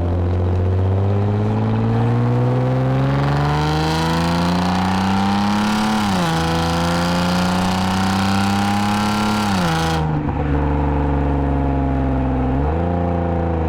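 2010 Lexus IS250 AWD's 2.5-litre V6 with an aftermarket full exhaust and valved mufflers, pulling under acceleration. The pitch climbs steadily and drops at upshifts about six and nine and a half seconds in. It then goes off the throttle into a steady cruise, and the revs jump up again near the end.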